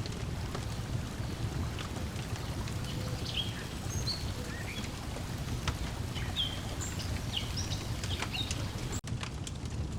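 Lakeside ambience: a steady low wash of water lapping, with scattered pops and clicks of a crackling wood fire, and short bird chirps from about three seconds in until near the end. The sound drops out for an instant near the end.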